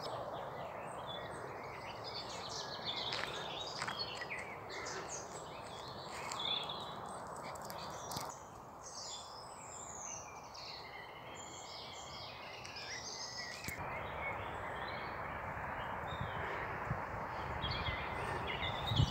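Several songbirds chirping and singing over a steady outdoor background hiss, the background changing abruptly twice.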